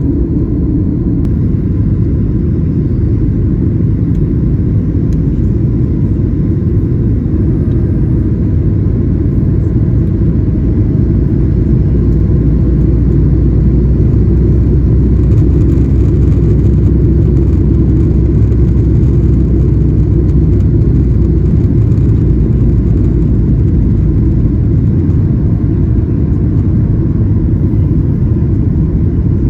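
Boeing 737-900ER cabin noise from inside the passenger cabin: a loud, steady low rumble of engines and airflow. It swells deeper for several seconds in the middle.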